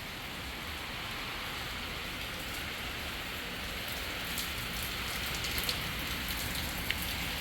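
Heavy rain falling as a steady hiss, with sharp ticks of individual drops striking close by from about four seconds in.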